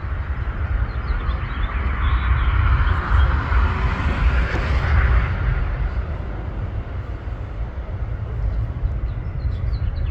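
Jet airliner's engines running on the runway, heard from a distance as a low rumble with a hiss that swells about two to five seconds in and then eases.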